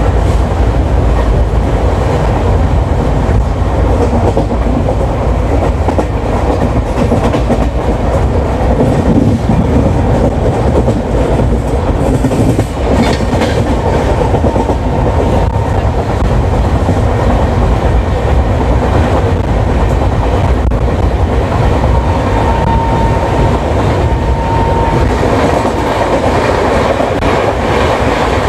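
Express train running at speed, heard from on board the moving coach: a loud, steady rumble of wheels on track. A faint thin high tone comes in briefly twice in the second half.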